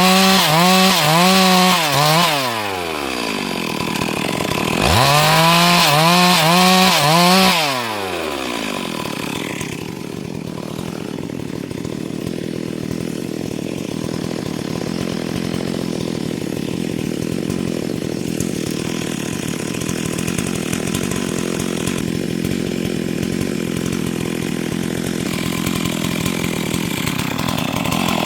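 Stihl MS382 two-stroke chainsaw at full throttle cutting wood, its pitch dipping and recovering in a steady rhythm under load; it drops back briefly, revs and cuts again, then settles to a steady idle from about eight seconds in.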